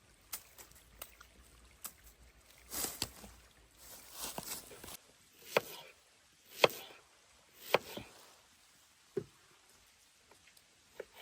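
Handling sounds: a stretch of rustling, then three sharp knocks about a second apart and a softer one after them.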